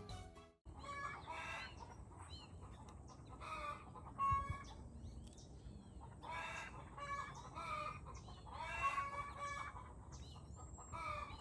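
Backyard hens clucking and calling, a run of short repeated calls from several birds. Music fades out in the first half-second.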